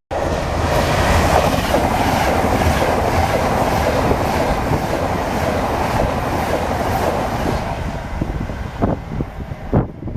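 A train passing close by on the rails, a loud steady rumble that eases about eight seconds in, followed by a few sharp clacks near the end.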